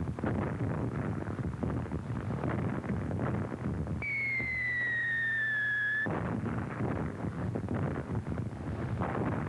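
Film sound effects of a World War I artillery barrage: a dense rumble of shellfire. About four seconds in a single shell whistle falls slowly in pitch for about two seconds, then cuts off suddenly as the rumble returns.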